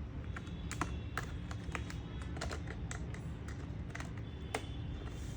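Irregular small metallic clicks and ticks of a screwdriver working the screws of a laptop's heatsink, screws that only loosen and do not come out.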